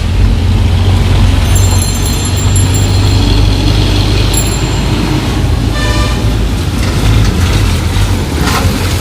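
Bedford TK truck's diesel engine running loud and steady in heavy traffic, with a short high-pitched tone about six seconds in.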